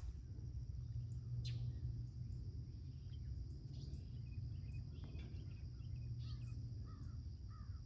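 Outdoor morning ambience: scattered short bird chirps and a steady high insect buzz over a low rumble, with a few sharp clicks.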